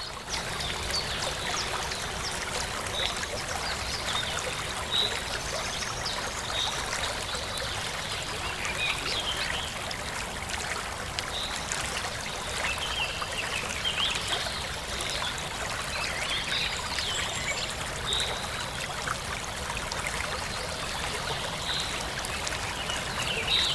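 Running water flowing steadily, with short high bird chirps now and then over it.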